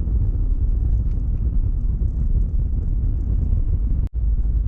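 Vehicle driving on the road: a steady low rumble of engine and road noise, cut off for a split second about four seconds in.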